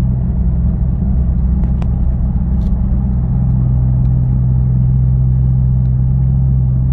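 Exhaust of a 2012 Ford Fusion's 2.5-litre four-cylinder, muffler replaced by a Magnaflow 10416 resonator, heard from inside the cabin while cruising steadily at about 45 mph. A steady low drone with road noise.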